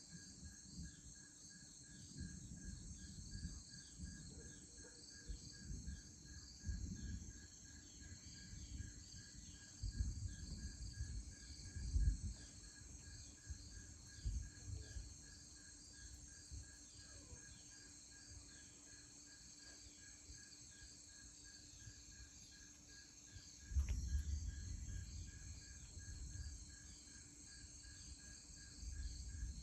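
Steady, pulsing chorus of evening insects. Irregular low rumbles come and go underneath it, heavier around the middle and again near the end.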